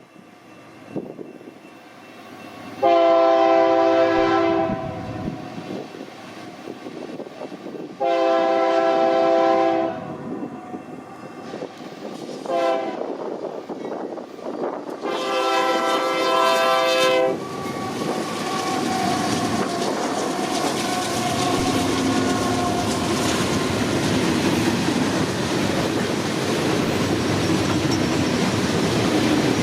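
Union Pacific GE locomotive's multi-chime air horn sounding two long blasts, one short and one long, a horn salute to track workers. The train then rolls past with a steady rumble and clatter of wheels on rail.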